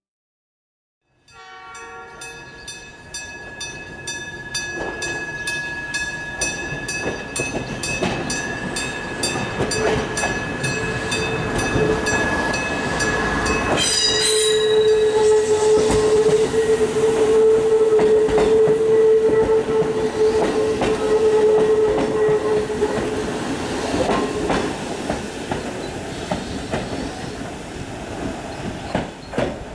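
Two-car Kumamoto Electric Railway 6000 series electric train (ex-Toei Mita Line) running slowly along street track and sounding its horn about halfway through. Its wheels clack over the rails as it draws close and passes, loudest in the second half. A fast, evenly repeating ringing, like a level-crossing bell, sounds through the first half.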